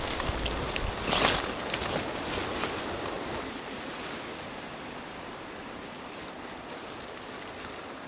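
Strong wind blowing in gusts, with a brief louder rush about a second in, easing off after about three seconds, then a few faint clicks and rustles.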